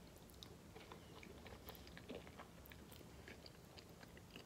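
Faint chewing of a mouthful of spaghetti in tomato sauce: small, scattered mouth clicks.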